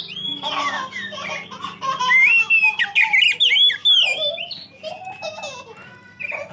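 Oriental magpie-robin (kacer) singing a loud, varied song of whistled notes, rising and falling slurs and quick chattering phrases, loudest in the middle. This is the full, open song that keepers play as a lure to set other magpie-robins singing.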